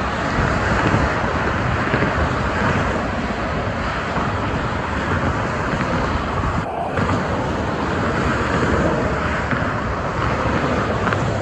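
Steady noise of highway traffic going by, tyres and engines blending into one continuous rush, with wind buffeting the microphone. The sound drops out briefly about seven seconds in.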